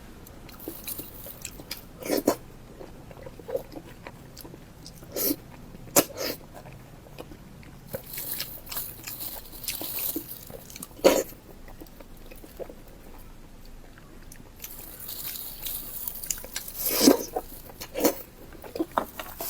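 Close-miked eating sounds: chewing and biting into spicy pork skin, with irregular sharp bite clicks, a few loud, and stretches of breathy mouth noise.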